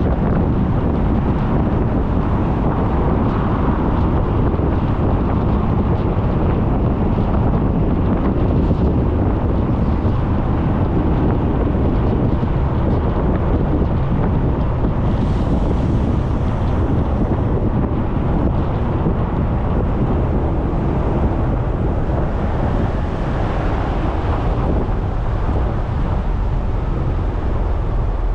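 Wind buffeting a GoPro microphone mounted on a moving Suzuki Burgman 400 scooter: a steady, heavy low rush of wind with road and engine noise underneath. A brief higher hiss rises about halfway through.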